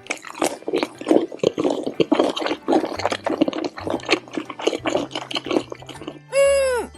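Wet slurping and gulping eating sound effect, a rapid run of short liquid pulses. Near the end comes a short cartoon tone that rises and falls in pitch.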